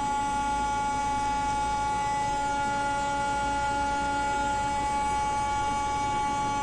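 A vehicle horn held down in one long, steady blast at an unchanging pitch, over a faint low rumble.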